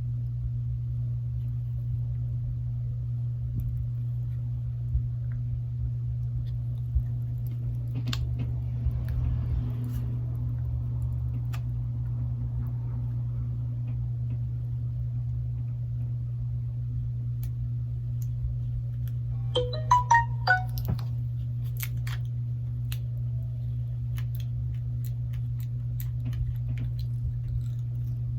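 Steady low electrical hum with scattered light clicks of handling. About twenty seconds in, a short electronic phone chime of a few quick notes sounds once.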